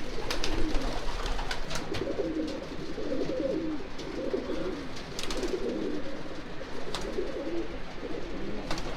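Racing pigeon cocks cooing in the loft: low, warbling coos that overlap and keep going, with a few faint clicks among them.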